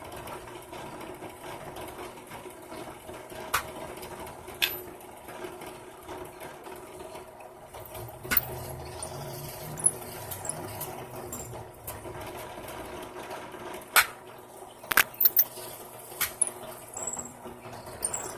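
A small electric motor, as in a power tool, running steadily with a level hum. Several sharp clicks and knocks sound over it, a few scattered early on and a quick cluster about fifteen seconds in.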